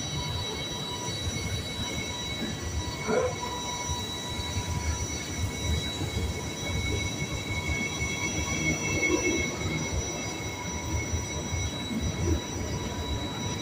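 Double-deck regional train rolling slowly along the platform, its wheels giving a steady high-pitched squeal over the low rumble of the cars.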